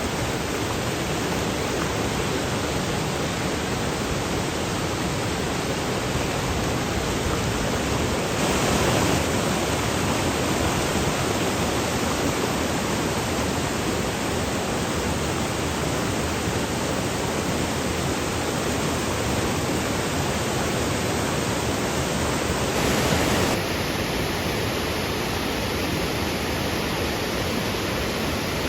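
Steady rush of water from a spring-fed waterfall, a little louder about nine seconds in.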